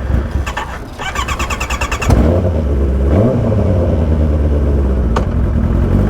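Kawasaki ZX10R inline-four with an aftermarket Austin Racing exhaust being started: about a second of fast starter cranking, then the engine catches about two seconds in, gets one short blip of the throttle, and settles into a steady idle.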